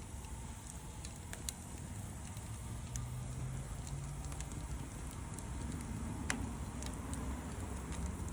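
Wood fire crackling, with scattered sharp pops and one louder pop about six seconds in, over a steady low rumble.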